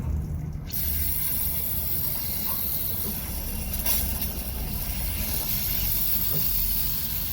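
Aerosol spray cleaner hissing in one long continuous blast that starts suddenly about a second in, washing grime off diesel fuel-pump parts.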